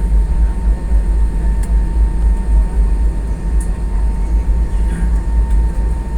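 Airbus A320 cabin noise on the ground with the engines running: a steady low rumble with a faint, even high whine, typical of the jet taxiing before take-off.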